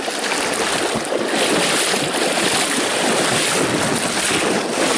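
Taiga stream rushing over a small rapid of stones, a loud steady wash of water that swells about a second in.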